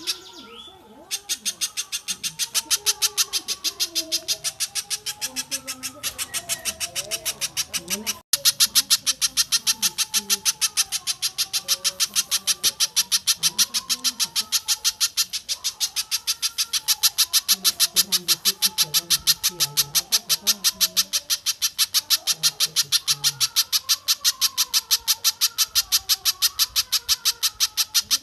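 Bird-tutor recording of a bird repeating sharp, high-pitched call notes in a fast, even series, about three a second, with fainter warbling calls underneath. The series breaks off briefly just after the start and cuts out for an instant about eight seconds in.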